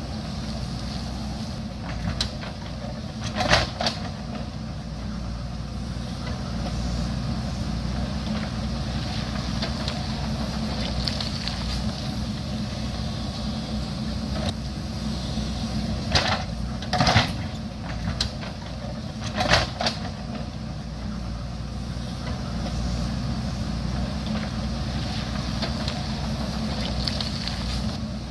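JCB backhoe loader's diesel engine running steadily under work, with several sharp knocks, one a few seconds in and three more in quick succession past the middle.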